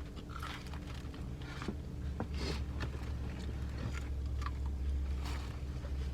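Eating sounds inside a car: chewing, with short crackles and rustles of food packaging as a chicken tender is dipped and bitten. Under them runs a low steady hum that grows louder about two seconds in.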